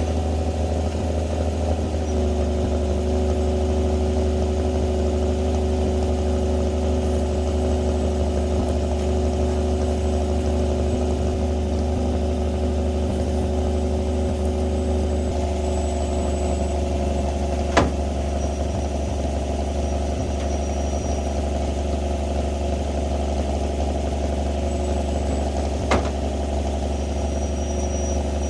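Winch truck's engine running steadily, with two sharp knocks, one a little past halfway and one near the end.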